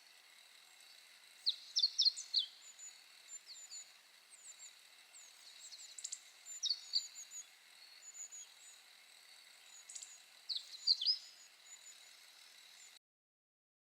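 Small birds chirping: clusters of quick, high, sweeping calls over a faint steady hiss. The sound cuts off abruptly near the end.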